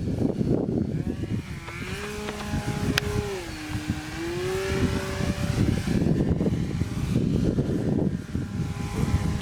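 Wind buffeting the microphone, with a motor whine from about a second and a half in to about six seconds, dipping in pitch in the middle and rising again before fading.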